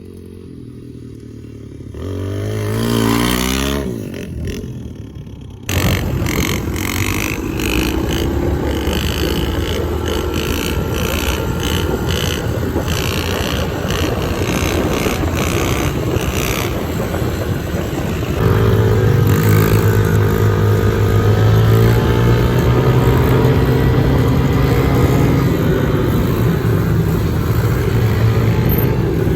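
Pit bike engine revving and running under load as it is ridden, its pitch rising and falling. About six seconds in the sound jumps suddenly louder and rougher, and from about eighteen seconds a stronger engine note climbs in pitch.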